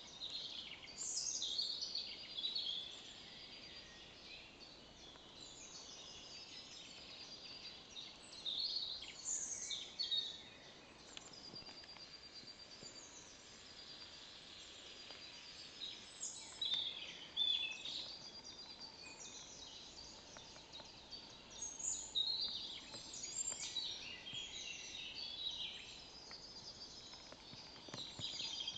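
Songbirds singing, high-pitched phrases coming every second or two over a faint, steady background.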